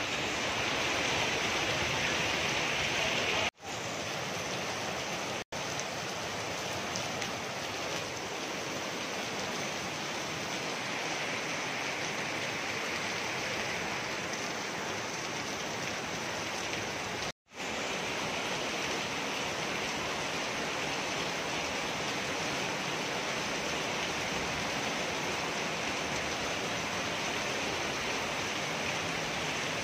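Heavy rain pouring steadily onto a flooded street, an even hiss of falling and running water. The sound drops out abruptly three times, each for a split second.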